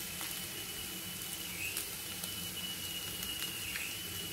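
Bitter gourd and onion pieces frying in oil in a kadai, giving a quiet, steady sizzle. A thin, steady high tone sits over it.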